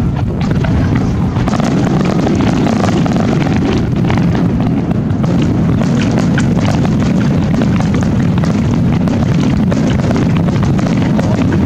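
Fireworks barrage: many aerial shells bursting in quick succession, their booms overlapping into a continuous rumble, with many fine crackles on top.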